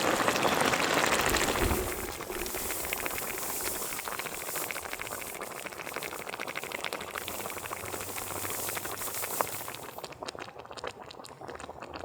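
Pork bone soup (gamjatang) boiling, a dense bubbling and popping. It is louder for the first two seconds, then settles to a softer steady bubbling.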